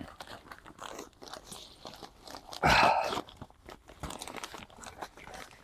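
Crunching and rustling from a bag of calcined clay granules being handled, with a louder half-second burst of noise about halfway through.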